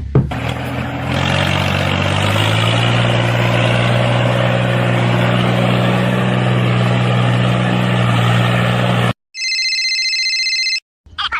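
Small motor of a homemade mini tractor running steadily. Its pitch climbs over the first couple of seconds and then holds, and it cuts off abruptly near the end. A high electronic tone sounds briefly after it stops.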